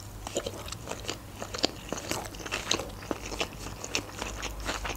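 A mouthful of sushi roll being chewed: irregular short, moist crunches and mouth clicks, several a second.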